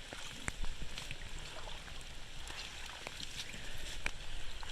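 Floodwater flowing and gurgling through a dam of sticks, a steady rush with many small splashes and drips ticking through it.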